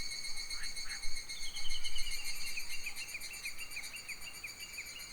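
Summer forest ambience: a steady, high-pitched insect chorus of crickets or cicadas, with a bird calling over it, two short rising notes and then a run of quick repeated chirps from about a second and a half in. Some low wind rumble on the microphone in the first two seconds.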